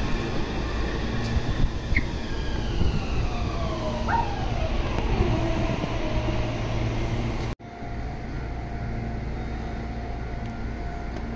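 Meitetsu 2200-series electric train braking into the platform: rumbling running noise with the traction motors' whine falling steadily in pitch as it slows. About two-thirds of the way through, an abrupt cut gives way to a steadier, quieter hum with a faint constant tone.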